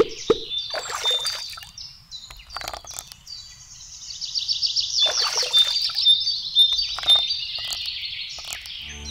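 Songbirds chirping, with a rapid trill about five seconds in, and a few brief splashy noises among them. One low plop comes right at the start.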